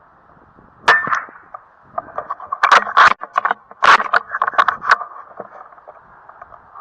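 A sharp crack of a rifle shot about a second in, followed by a quick run of loud clicks and knocks.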